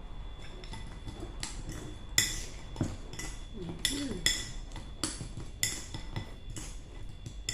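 A metal utensil clinking against a dish, about nine separate taps spread irregularly, each with a brief ringing tone.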